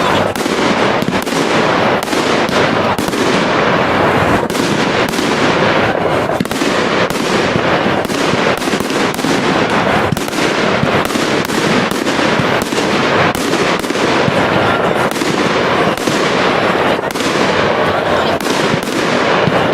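Professional fireworks display at full pace: many sharp bangs of shell bursts in quick succession over a constant dense noise, with no pause.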